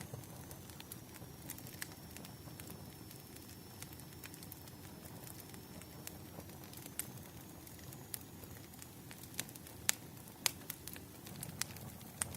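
Wood fire crackling: a steady low rumble of burning logs with scattered sharp pops and snaps, a few louder ones in the second half.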